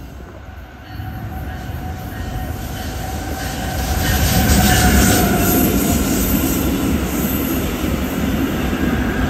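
Passenger train passing close by, its wheels rumbling on the rails with a faint high steady squeal, getting louder about four seconds in.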